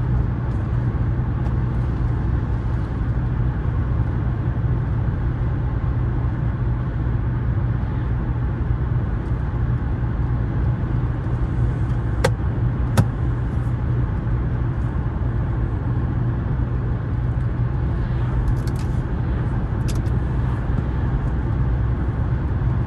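Steady low drone of a 2014 Audi A4 2.0T quattro's turbocharged four-cylinder and tyres while driving. Two sharp clicks about twelve seconds in, under a second apart.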